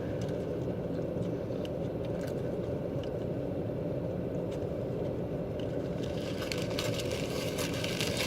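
Steady low rumble inside a car cabin, with the engine running. Over it come scattered small clicks of eating, which thicken into a patch of crackling near the end.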